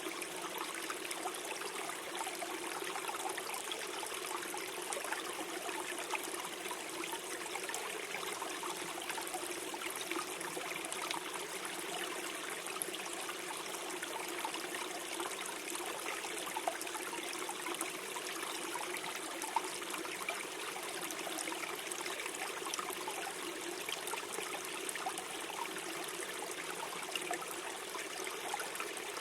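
Small stream flowing and gurgling over stones, a steady babble with tiny splashes.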